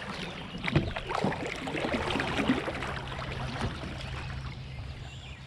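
Kayak moving through a shallow, fast stretch of creek: irregular splashes and knocks against the hull over rushing water. They thin out after about four seconds.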